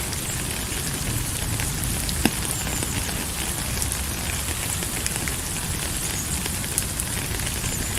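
Steady rain falling, with a low rumble underneath and a couple of single sharp drop hits standing out, once about two seconds in and once near the end.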